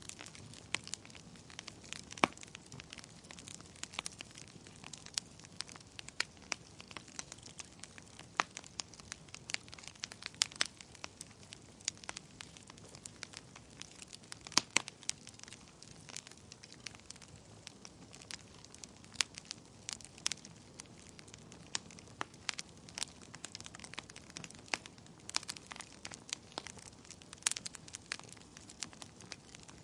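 Wood fire burning in a fireplace: irregular sharp crackles and pops over a low steady hiss of flames.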